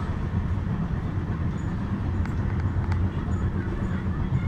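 Moving passenger train: a steady low rumble of wheels running on the track, with a couple of light clicks near the middle.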